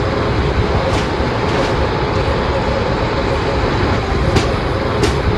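Train running on the track: a steady rumble of wheels on rails, with a few faint clicks.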